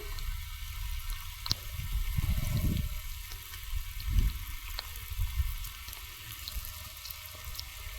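Steady heavy rain falling, a constant hiss with scattered sharp drip taps, and irregular low thumps.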